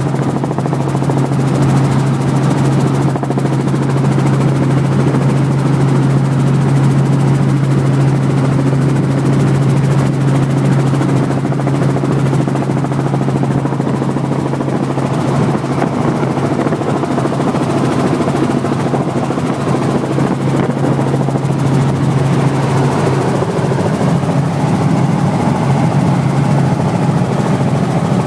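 Helicopter running, a loud steady drone with a strong low hum. The hum changes about 23 seconds in.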